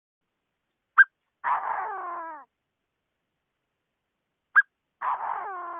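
Chinese francolin calling twice: each call is a sharp short note followed by a harsh, falling, roughly one-second phrase, about three and a half seconds apart.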